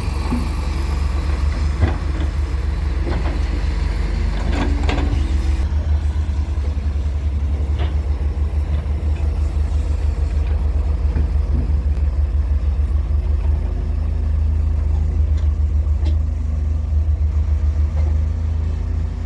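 Heavy diesel engines of an excavator and dump truck running with a steady low throb, with a few sharp knocks and scrapes in the first several seconds.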